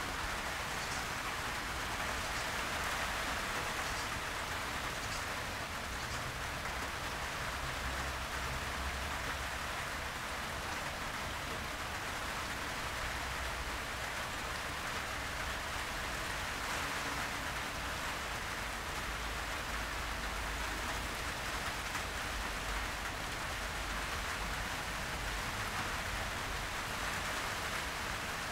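Heavy rain falling steadily on garden foliage, an even, unbroken hiss.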